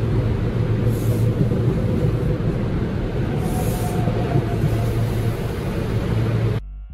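SEPTA electric commuter train running past a platform in an underground station: a steady rumble of wheels on the rails that cuts off suddenly near the end.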